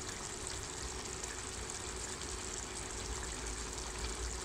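Onion and chili-spice paste sizzling steadily in oil in a wok as the masala fries down (kosha).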